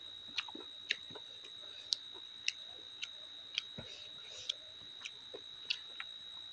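Soft close-up chewing of rice and curry with wet mouth clicks, roughly two a second, over a steady faint high-pitched whine.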